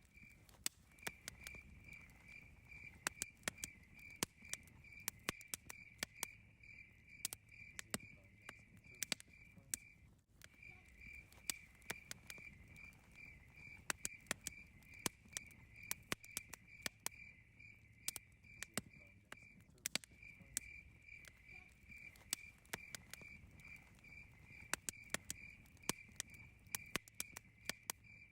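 Campfire crackling with irregular sharp pops and snaps, over a cricket chirping steadily at about three chirps a second, which pauses briefly about ten and twenty seconds in.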